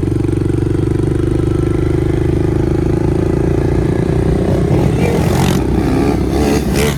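Pit bike engine running at a steady fast idle. From about four and a half seconds in the note grows rougher and less even, with some clatter.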